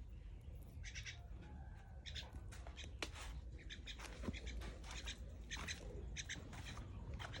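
Small birds chirping in short, high calls, several a second, with a few sharp clicks among them.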